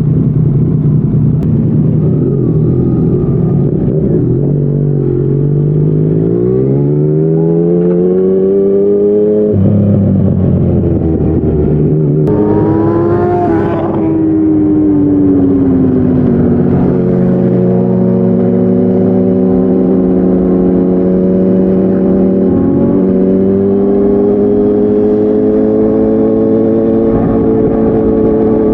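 Yamaha MT-09 inline-three engine through a Yoshimura R55 slip-on exhaust, heard while riding. It climbs in pitch under acceleration, drops suddenly about ten seconds in at a gear change, rises and falls again briefly, then settles into a steady cruise.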